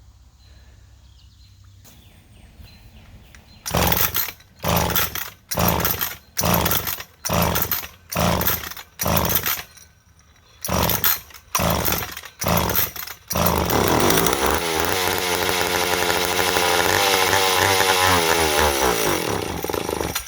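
McCulloch 10-10A two-stroke chainsaw being pull-started: about a dozen quick, rhythmic pulls of the starter cord, then the engine catches and runs for about six seconds before slowing and dying near the end. It almost keeps running, and the owner's answer is to open the low-speed mixture screw further, a sign that the idle mixture is too lean.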